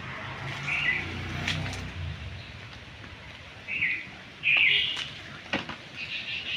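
A bird gives a few short calls, the loudest about halfway through, over a low outdoor background. Several sharp taps and slaps come as the caught fish is handled.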